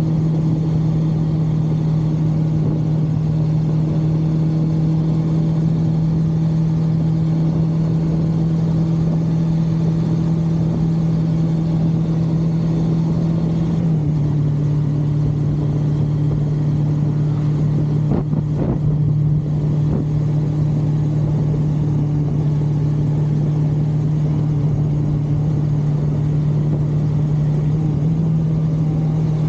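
1982 Suzuki GS550L's air-cooled inline-four engine running steadily at cruising speed. Its note drops a little about halfway through and rises again near the end.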